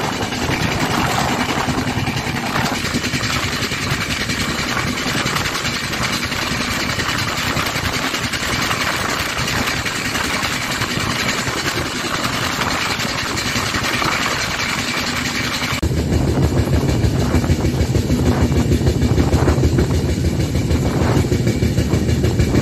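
Indian Railways passenger train running at speed, heard from the coach doorway: a steady, loud rush of wheel-on-rail noise and air. About two-thirds of the way through, the sound changes abruptly, becoming deeper and a little louder.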